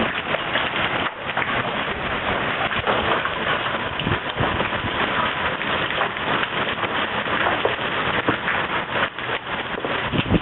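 Large hailstones pelting a swimming pool in a heavy hailstorm: a dense, steady patter of countless impacts.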